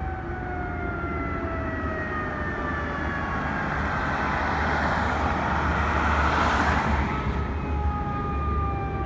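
Fire truck going by on an emergency run, its siren sliding slowly down in pitch and rising again about seven seconds in, over a heavy engine rumble. Road and engine noise swell as it passes, loudest about six to seven seconds in.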